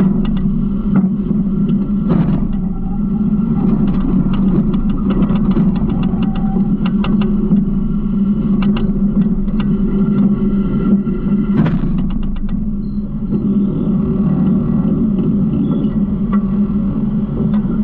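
Garbage truck engine running steadily with a low drone, overlaid by many light rattling clicks and one brief louder scrape about two-thirds of the way in.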